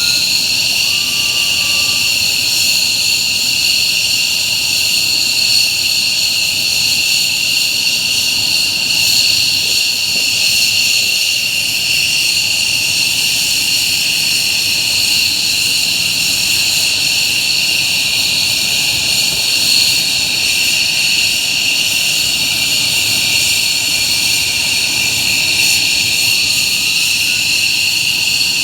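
F-15J fighters' F100 turbofan engines running steadily on the ground, a loud, even, high-pitched jet whine that neither rises nor falls.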